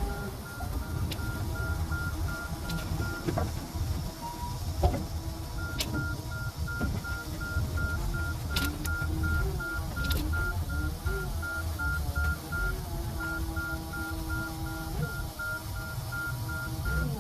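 Rapid electronic beeping at one steady pitch, several beeps a second, pausing for about two seconds near the middle. It plays over a low rumble like a running engine, with a few sharp clicks.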